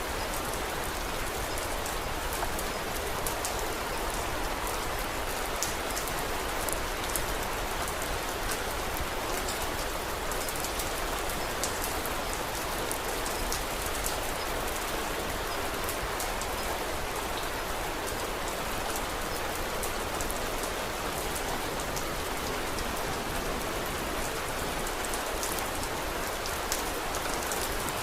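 Steady, even rain with many fine, sharp drop ticks throughout.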